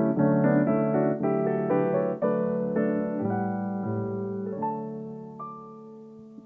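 Solo piano playing a passage of chords that ends about four and a half seconds in on a final chord, left ringing and fading away.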